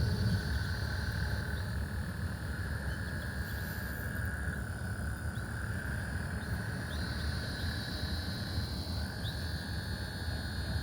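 Frogs calling in long, overlapping trills that each run for a couple of seconds and hand over from one to the next. A fainter, higher trill and a few short chirps come and go above them, over a steady low rumble.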